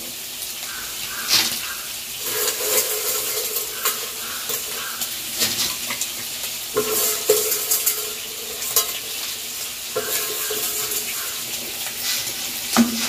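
Prawns frying in hot oil, a steady sizzle, beside a pot of boiling water. A few sharp metal knocks stand out; the last, near the end, comes as a steel ladle is brought over the aluminium pot.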